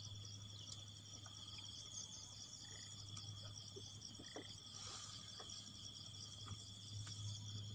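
Insect chorus trilling steadily in several high-pitched bands, over a low steady hum, with a few faint scattered clicks.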